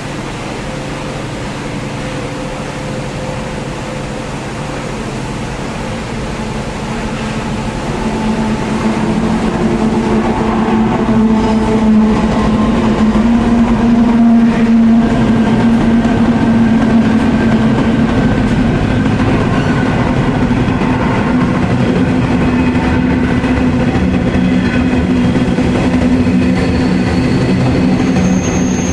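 Diesel-hauled freight train passing through a station: a steady locomotive engine drone over the rumble of rolling wagons, growing louder about eight seconds in. A brief high-pitched wheel squeal comes near the end.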